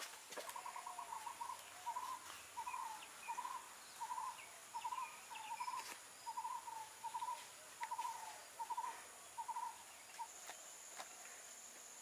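A bird calling: a quick rattle of short notes, then a long run of short paired notes about every 0.7 seconds that stops about ten seconds in, over a steady high insect hum.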